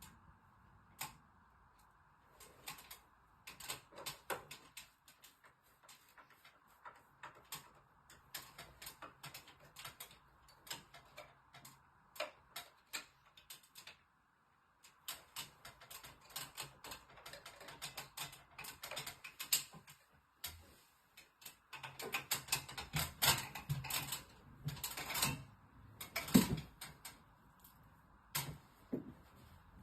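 Irregular clicks, taps and light rattles of hand work with tools and parts, coming in quick runs with short pauses. The knocks are louder and more frequent in the last third.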